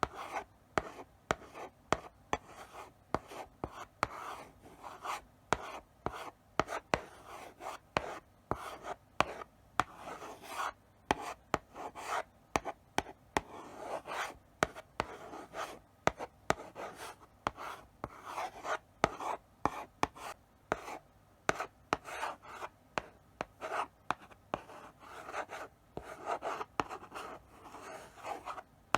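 Chalk writing slowly on a blackboard: a steady run of short scratchy strokes broken by sharp taps as the chalk meets the board.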